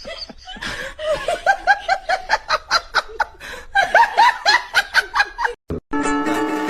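Rapid high-pitched laughter: a run of short snickering pulses, about five a second, that breaks off just before music starts near the end.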